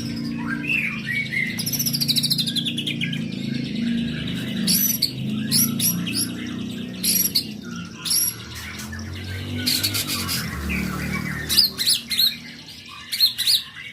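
White-rumped shama (murai batu) singing a varied song of whistles, fast trills and sharp chirps, with barely a pause.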